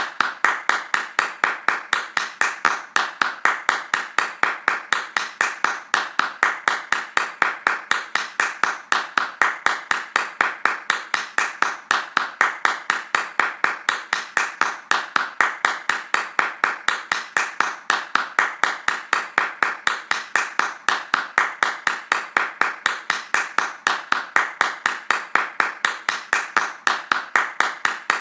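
Hands clapping in a fast, steady, evenly spaced rhythm, several sharp claps a second without a break.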